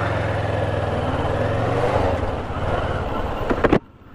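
Motorcycle engine running at a steady road speed under rushing wind noise. Near the end come two sharp clicks, then the sound cuts out abruptly and stays much quieter.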